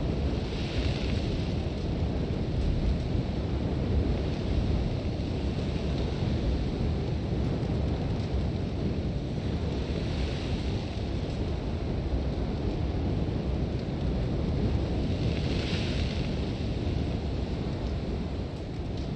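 Sandstorm wind: a deep, steady rush of wind with hissing swells of blown sand about a second in, around the middle and again near the end.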